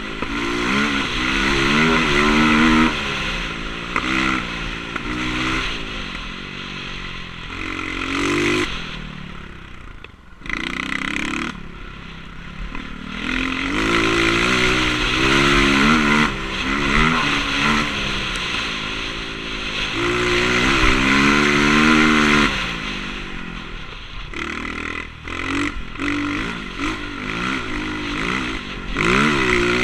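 Motocross bike engine revving up and down as the rider works the throttle and gears, pitch climbing and falling repeatedly, with wind rushing over the camera microphone. Near a third of the way in the engine drops off briefly before picking up again.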